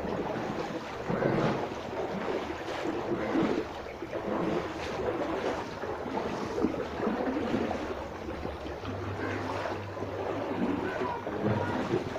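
Floodwater rushing and sloshing, a rough steady noise that surges unevenly, with wind buffeting the microphone. A low steady hum joins about nine seconds in for a few seconds.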